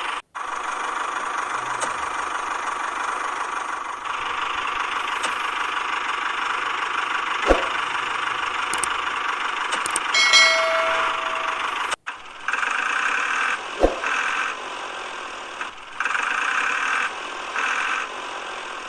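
Small motor running with a steady whir, broken by abrupt cuts and stopping and starting in short stretches near the end. There are two sharp clicks and a brief beep about ten seconds in.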